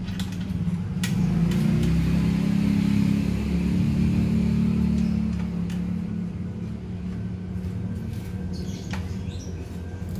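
A motor engine running, growing louder for a few seconds and then easing off, with a few sharp clicks.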